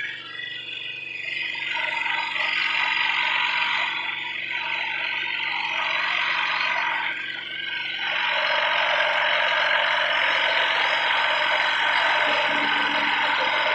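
Scroll saw running and cutting, a steady buzz with brief dips around four and seven seconds in, then steady and slightly louder from about eight seconds on.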